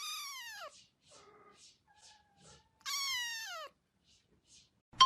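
Cat meowing twice, two long meows about three seconds apart, each sliding down in pitch.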